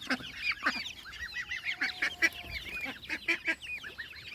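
A crowd of young chicks and other baby poultry peeping: many short, high calls overlapping continuously, with a few louder peeps standing out.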